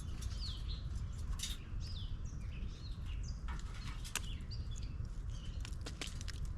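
Small birds chirping in short, quick falling notes, with several sharp ticks scattered through, over a steady low rumble.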